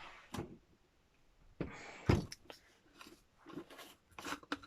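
Craft supplies being handled on a table, likely the gesso pot being picked up: a brief rustle ending in one sharp knock about two seconds in, then a few light clicks and taps.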